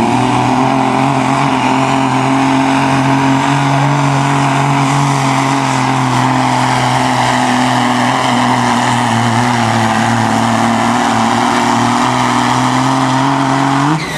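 Pulling truck's engine held at full throttle at steady high revs while dragging the pulling sled. The pitch sags slightly under load, then rises briefly before the throttle is let off near the end.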